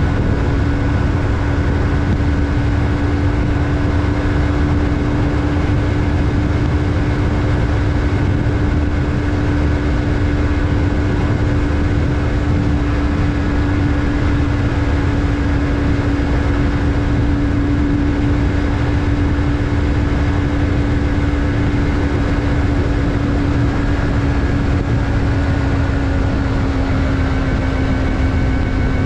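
Yamaha MT-03's 321 cc parallel-twin engine running at a steady cruise, its note holding level and easing down slightly near the end, over a heavy low rumble.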